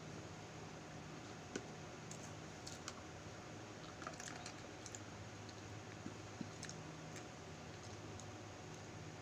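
Scattered light clicks and taps from a balut egg, its shell and a plastic plate being handled, over the steady hum of an electric fan.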